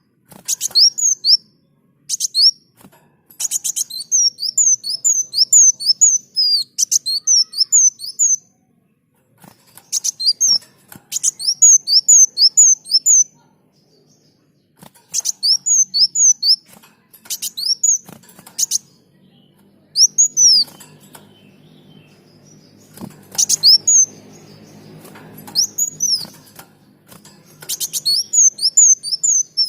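Kolibri daun (a sunbird) singing: quick runs of high, sharp downward-sweeping chirps, several notes at a time, with short pauses between phrases. A faint low hum sits underneath in the second half.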